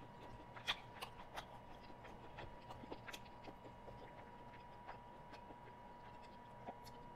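Faint chewing and small mouth clicks of a person eating a fried cheese stick, with the clicks thickest in the first few seconds. A faint steady high whine runs underneath.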